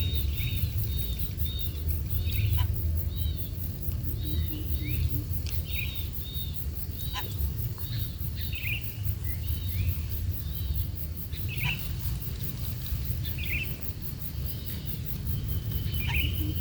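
Bird chirping: short high chirps repeated a few times a second, thinning out later, over a steady low rumble.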